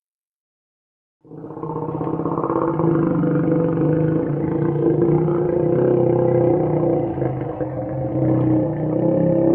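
Creature sound effect for a Purussaurus, the extinct giant caiman: one long, steady, low growl. It starts after about a second of silence and holds for about eight seconds.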